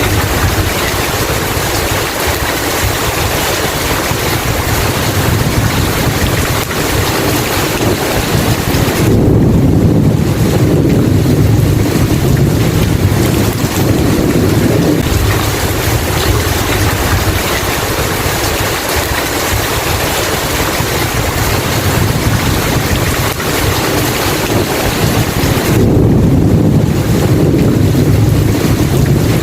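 Steady heavy rain with two long, low rumbles of rolling thunder, one about a third of the way in and another near the end.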